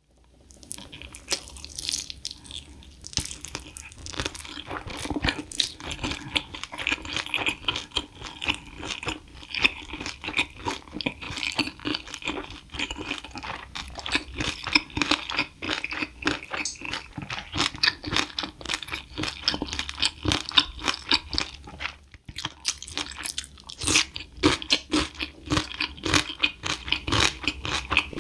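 Close-miked chewing and crunching of crispy spicy seasoned fried chicken (Kyochon Red Combo): many quick, irregular crunches, with a short pause about 22 seconds in.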